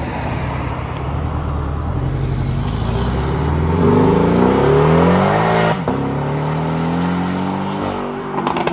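A sports car's engine accelerating hard: the revs climb to a peak, drop sharply with an upshift about two-thirds of the way through, then pull on at a steadier, slowly falling pitch. A few short sharp cracks near the end.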